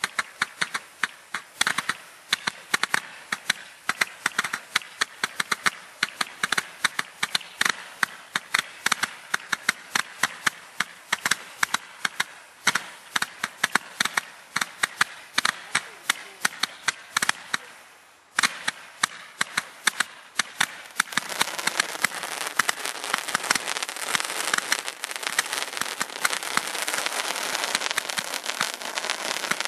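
Consumer fireworks going off: a rapid, continuous run of crackling pops and small bangs. It drops away briefly about 18 seconds in, then comes back as a thicker, louder crackle.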